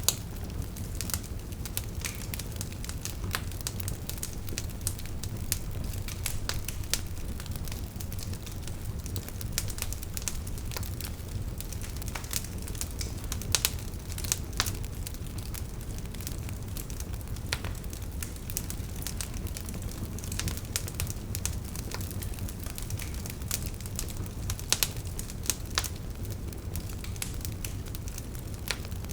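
Wood fire crackling, with frequent sharp pops and snaps over a steady low rumble of burning logs; a few louder pops stand out, around the middle and near the end.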